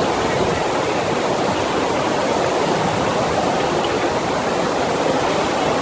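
Steady rush of water from a FlowRider sheet-wave machine, a thin fast sheet of water pumped up over the ride surface.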